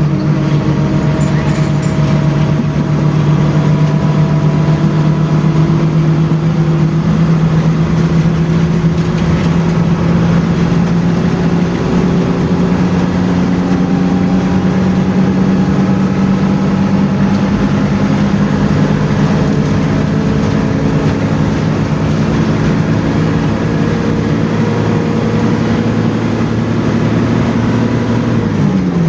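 Bus engine running under load, its pitch climbing slowly and steadily as the bus gathers speed, then falling abruptly near the end, over a steady hiss of road and tyre noise.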